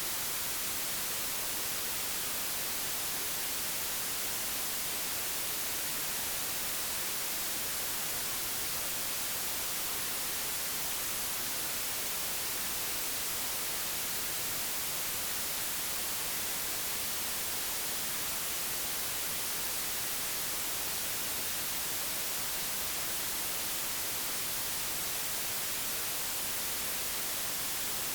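Steady, digitally generated white noise: an even hiss strongest in the treble, with no change, tones or events.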